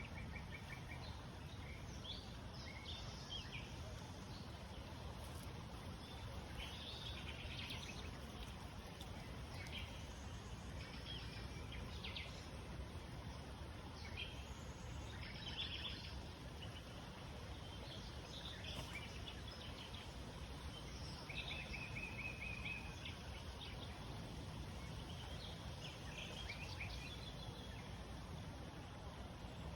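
Wild birds chirping and trilling on and off, with one longer even trill a little past the middle, over a steady low background rush.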